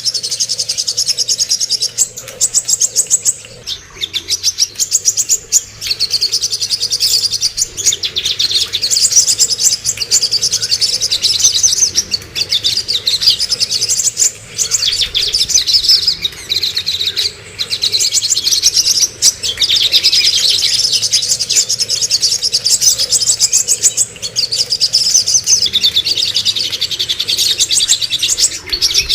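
Songbird song from a masteran recording, the kind played to tutor captive songbirds: an almost unbroken run of fast, high chirps and trills, with short breaks every few seconds.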